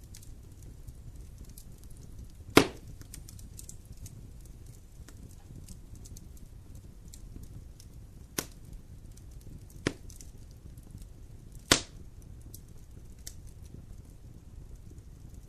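Wood campfire crackling with a low steady rumble and many small snaps, and four sharp pops of burning wood, the loudest about two and a half seconds in and near the end.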